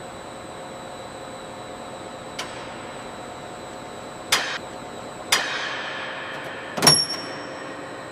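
Steady mechanical hum under a light click, then three sharp metallic clanks, the second trailing off in a ring and the last the loudest, with a brief high ring.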